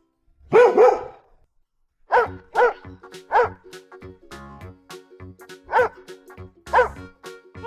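Dog barking, a loud double bark about half a second in, then several single barks spaced out over the rest, over background music.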